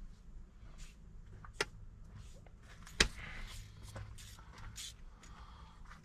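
Hand tools working on the car: a few sharp clicks and knocks, the loudest about three seconds in, over a faint steady low hum.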